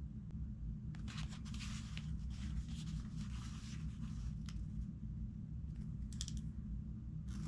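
Book pages rustling and scratching as they are handled and turned, over a steady low hum.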